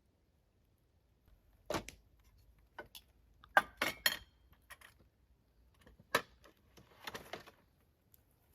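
Objects being handled: a series of sharp knocks and clinks, several in quick succession in the middle, then a brief rustle near the end.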